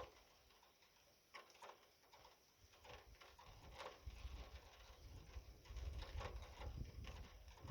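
Faint rain: irregular drips tapping on a surface, a few to the second, over a low rumble that swells in the second half.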